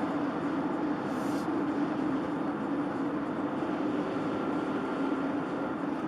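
Steady driving noise of a moving vehicle: a constant engine and road hum with a strong low drone, heard from inside the vehicle.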